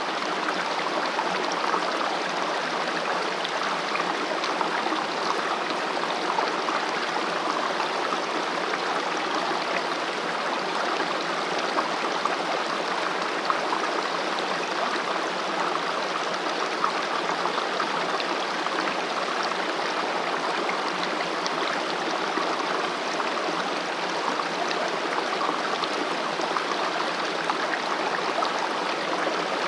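Valley stream flowing steadily, an even rushing and gurgling of water with no breaks or separate events.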